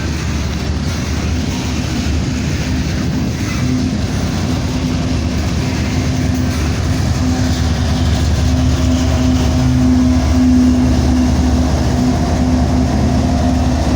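Diesel locomotive working as a rear-end DPU, pushing a heavy freight train as it rolls past. Its engine drone holds a steady hum over the rumble of wheels on rail, growing slightly louder about two-thirds of the way through.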